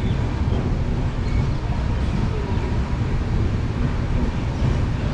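Steady low rumble of a passenger train running along the track, heard from on board.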